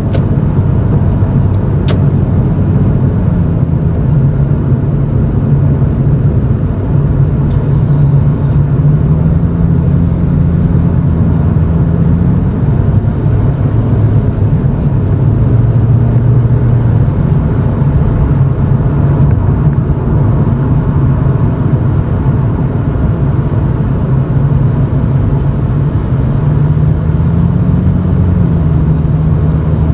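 Toyota Chaser GX100's straight-six exhaust through an aftermarket Reinhard cannonball muffler with its silencer insert fitted, heard from inside the cabin while driving slowly: a steady low drone whose pitch rises and falls a little with engine speed.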